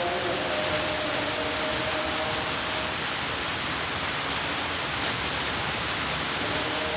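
Heavy rain falling steadily, a dense even hiss, with faint steady tones beneath it that fade out about three seconds in.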